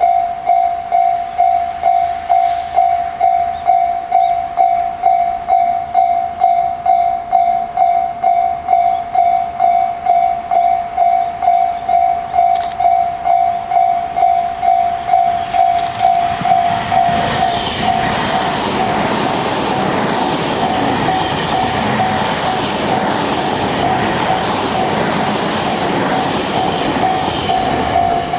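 Japanese level-crossing warning bell ringing steadily, about two strokes a second. About 17 seconds in, a Tobu Tojo Line electric train passes with a loud rumble of wheels and motors for about ten seconds, the bell still sounding beneath it.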